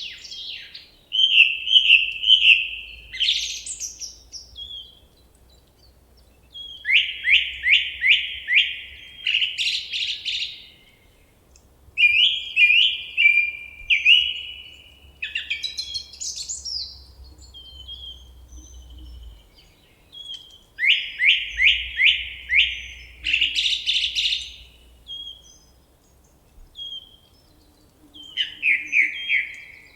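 A songbird singing in repeated phrases, each a quick run of five or six sharp notes sweeping downward, the phrases coming every few seconds with short pauses between.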